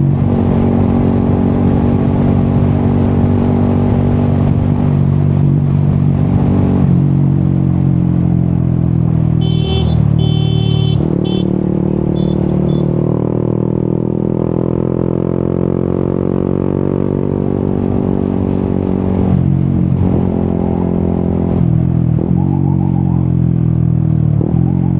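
Yamaha XSR 155's single-cylinder engine through an Akrapovic exhaust, under way. Its pitch shifts with throttle and gear changes, with a long, gradual slowing in the middle and several quick changes near the end. A few short high-pitched beeps sound about ten to thirteen seconds in.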